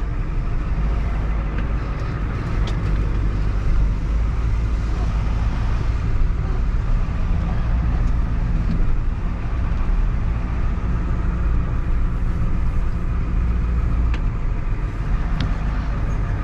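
Steady engine and road rumble heard from inside a moving vehicle's cabin, with no sharp events.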